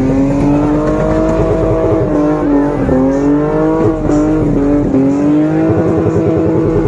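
A car engine held at high revs. Its pitch climbs over the first second or so, then stays high and steady, with a few brief dips where the throttle eases and comes back.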